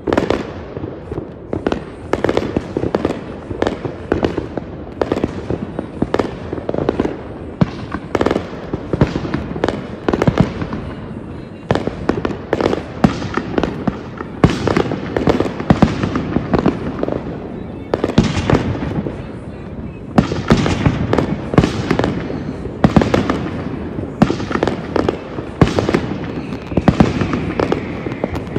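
Fireworks display at its height: a continuous barrage of aerial shell bursts, several sharp bangs a second overlapping one another with no let-up.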